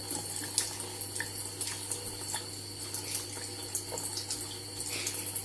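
Kitchen sink tap running steadily, with small irregular splashes and drips as a budgie bathes under the water.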